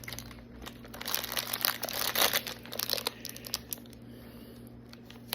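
Plastic snack wrapper crinkling and crackling as it is handled and opened, busiest in the first three seconds and sparser after.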